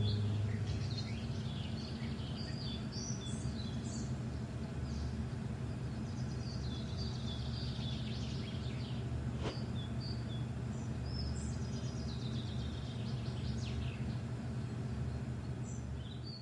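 The last note of a song fades away in the first second or two. After it come scattered bird chirps and short falling whistles over a low, steady hum.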